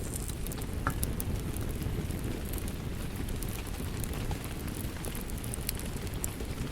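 Wood fire crackling, with scattered sharp pops and snaps, over a steady low rush of rain.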